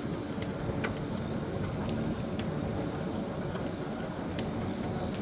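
Steady low rumble of wind and tyre noise from an e-bike being ridden, with a faint hum and a few light ticks.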